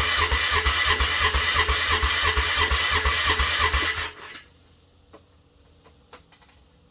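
An engine being cranked over by its electric starter on a cold morning, with a steady rhythmic churning and no sign of catching. The cranking stops abruptly about four seconds in, leaving only a few faint ticks.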